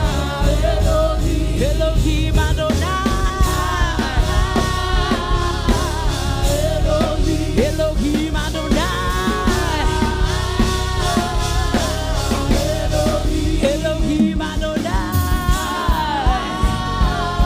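Gospel worship music: a vocalist sings sustained, sliding melodic lines over a band with bass and drums keeping a steady beat.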